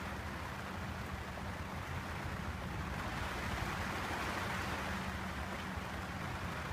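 Steady rain falling on a sailboat's canvas and clear-plastic cockpit enclosure, with a low steady hum underneath.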